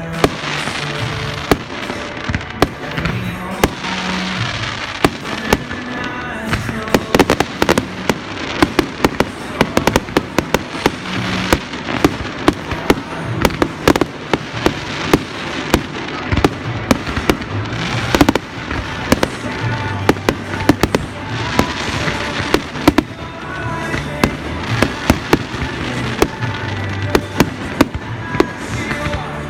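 Fireworks going off in rapid, irregular bangs and crackles, with music with a stepping bass line playing throughout.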